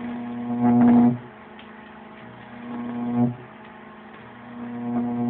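High-voltage arc from a microwave oven transformer wired straight to 120 V mains, buzzing and crackling in bursts as it is drawn: a loud one about a second long at the start, a shorter one around three seconds in, and a longer one building near the end. A fainter steady hum fills the gaps.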